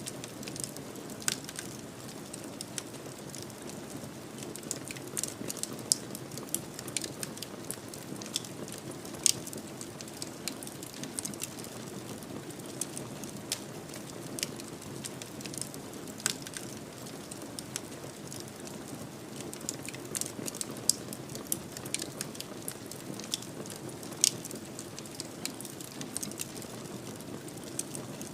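Wood fire in a fireplace crackling, with irregular sharp pops over a steady low rumble of burning. Half a dozen pops stand out louder than the rest.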